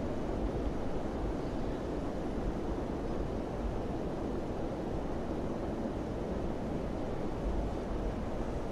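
Wind blowing steadily, a low, even rushing noise with no gusts or breaks.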